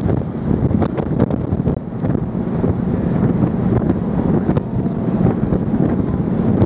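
Wind buffeting the microphone aboard a cross-Channel ferry under way, a loud low rush that swells and dips in gusts, with a few faint ticks.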